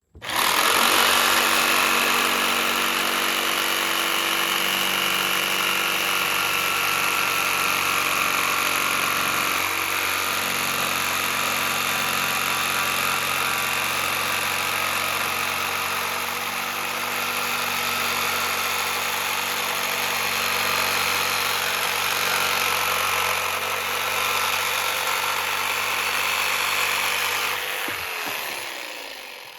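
An electric power tool's motor running steadily for a long stretch, then switched off near the end and spinning down.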